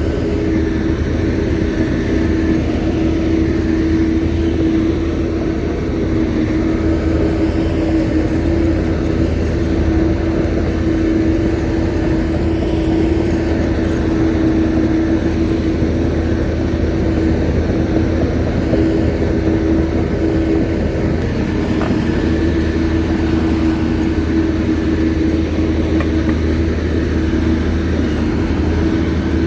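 Shantui bulldozer's diesel engine running steadily at working speed, a continuous drone with no breaks or big changes in pitch.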